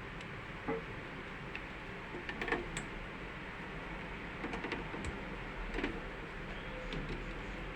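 Scattered light clicks and taps of hand tools on a safety breaker's terminal screws as they are retightened, over a steady background hum.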